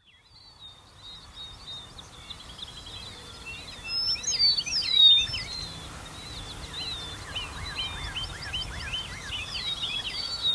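Grassland songbirds singing in a chorus of short chirps and trills, with a louder phrase of slurred, falling whistles about four seconds in and again near the end.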